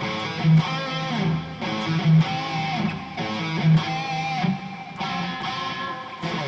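Harley Benton SC-500 electric guitar played through the Overloud TH3 amp simulator: chords strummed in a repeating pattern, with a harder accented strum about every second and a half.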